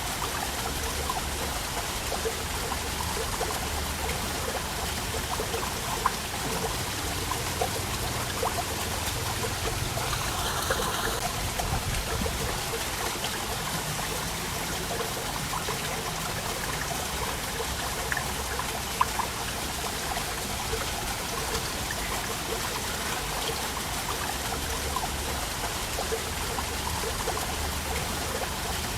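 Waterfall: water falling and splashing, a steady rushing with small splashes scattered through it.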